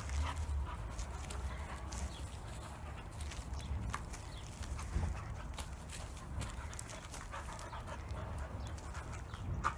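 A puppy panting, over a low steady rumble.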